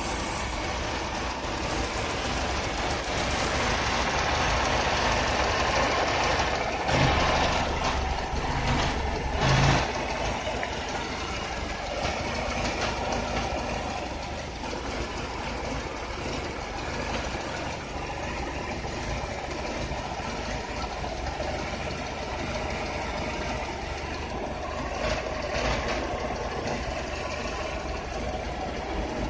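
Mercedes W202's M111 2.3-litre inline-four petrol engine idling steadily with the bonnet open, with two brief louder moments about seven and ten seconds in.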